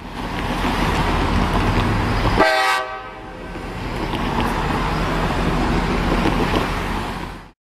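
Train running with a short blast of its horn about two and a half seconds in; the sound cuts off suddenly near the end.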